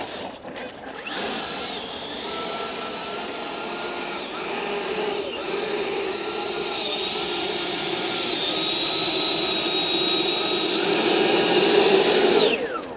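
Electric ducted fan of an FMS BAE Hawk RC jet whining at high speed, its pitch dipping briefly twice with throttle changes. It rises to its loudest near the end, then cuts off suddenly.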